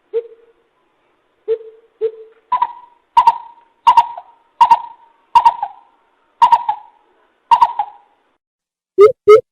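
Coucal calling: a series of about ten hollow hoots, the first three lower and the rest higher, each under a second apart.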